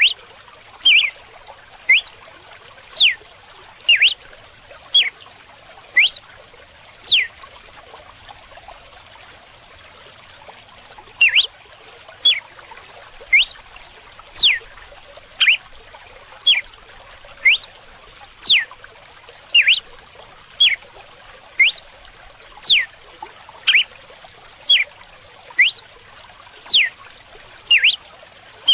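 Red-cowled cardinal singing its 'açoite' (whip) song: short, sharp whistled notes, some sweeping down and some up, about one a second, with a pause of a few seconds in the middle. A steady trickle of running water runs underneath.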